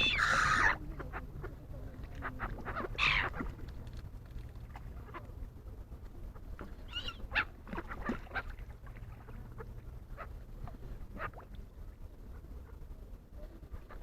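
Wild birds calling: a loud call right at the start, another about three seconds in, then scattered shorter calls.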